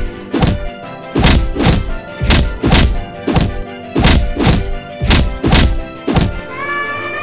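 Heavy thudding impact sound effects of an animated animal fight, coming in quick pairs about a dozen times over background music. They stop just after six seconds in, and a rising, brass-like melody takes over.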